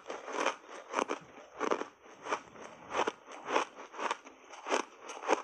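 Close-up chewing of a bite of a Qian crunchy buckwheat ice bar with the mouth closed: a steady run of loud crunches, a little over half a second apart.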